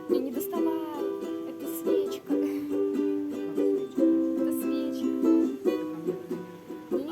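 Ukulele music, a cover song played on ukulele, with notes held and changing about every second.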